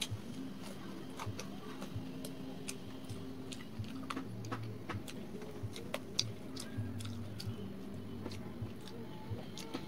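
A person chewing and biting fried pakora and paratha, with wet mouth sounds and scattered sharp clicks, over a steady low hum.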